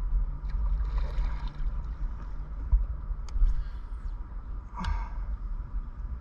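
Water sloshing against a small boat, with a steady low rumble and a few sharp clicks and knocks from handling fishing gear.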